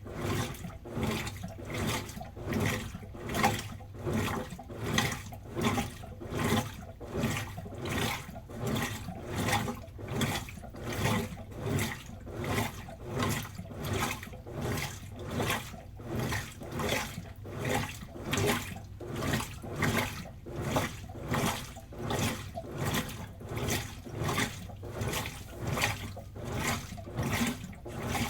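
Washing machine drum turning a load of clothes in water: a rhythmic sloshing swish repeating a little faster than once a second over a steady low motor hum.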